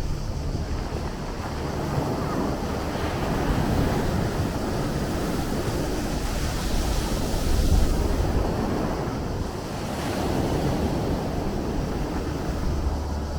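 Sea surf washing in continuously, one wave swelling to its loudest about eight seconds in before easing off.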